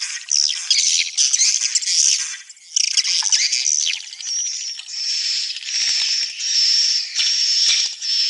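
Swiftlets (walet) calling in dense, scratchy, high-pitched twittering chatter. About halfway through this settles into a run of short, evenly repeated buzzy phrases at a steady high pitch.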